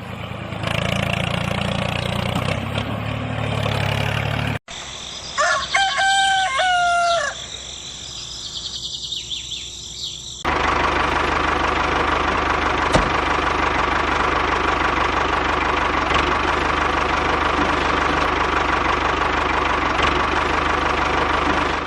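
A rooster crows once, about five seconds in, with a drawn-out call that rises, holds and falls. Before and after it, a steady mechanical hum runs, dropping away before the crow and returning about ten seconds in.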